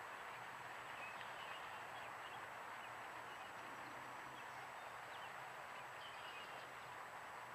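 Faint, short high chirps from birds, several scattered through, over a steady background hiss.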